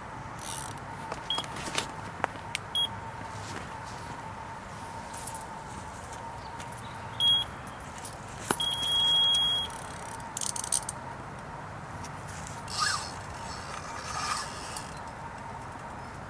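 Electronic carp bite alarm beeping: a few single beeps, then one held tone about a second long near the middle, the sign of a fish taking the bait and running with the line. Scattered clicks and rustles come through as well.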